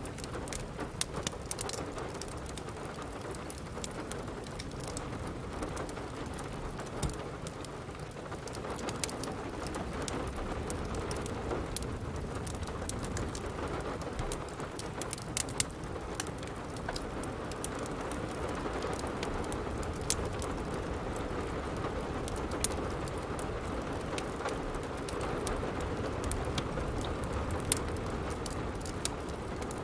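Steady rain falling on a roof, with a wood fire crackling: many sharp pops and snaps scattered irregularly over the rain's hiss.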